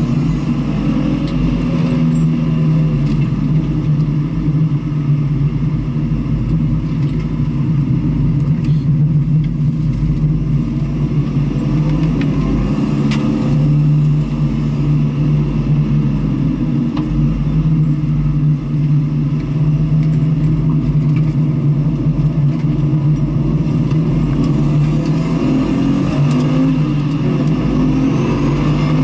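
Engine of a vehicle lapping a race circuit, running hard without a break, its pitch rising and falling as the revs change.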